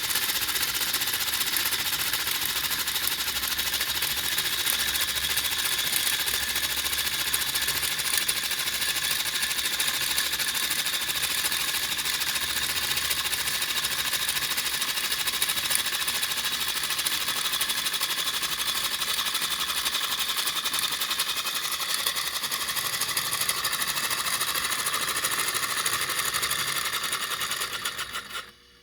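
3D-printed single-cylinder compressed-air engine running on air from a balloon, a fast, even clatter of air puffing out through the vent in the cylinder's side. Near the end it dies away and stops as the balloon's air runs out.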